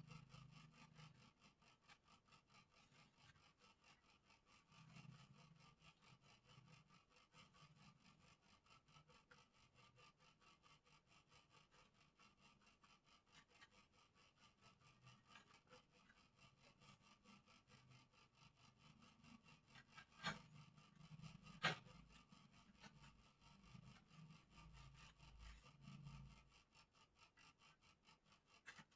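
Faint, rhythmic rubbing strokes of hand-smoothing the wood of a bird cage, with two sharp taps a little past two-thirds of the way through.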